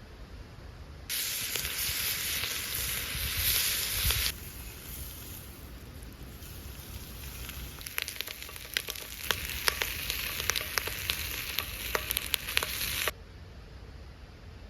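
Food frying and sizzling. A loud sizzle starts about a second in and eases a few seconds later, then carries on with a run of sharp crackling pops before stopping abruptly near the end.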